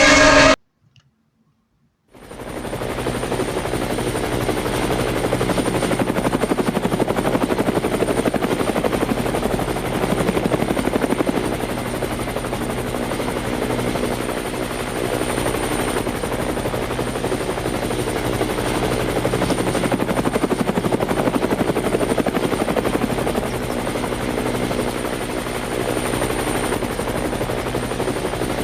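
Steady mechanical whirring with a fast flutter, like a small motor or rotor, starting about two seconds in after a brief silence.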